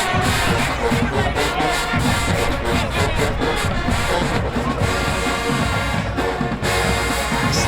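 Marching band playing, brass over a steady beat of drum hits.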